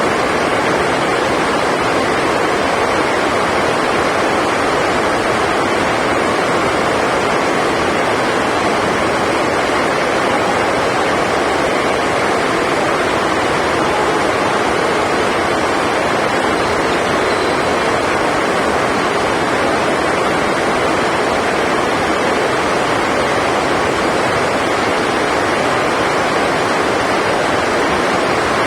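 Heavy rain: a loud, steady, even hiss with no breaks.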